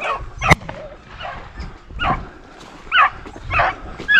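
Beagle pack baying on a rabbit's trail, one bay after another about every second. A single sharp crack about half a second in.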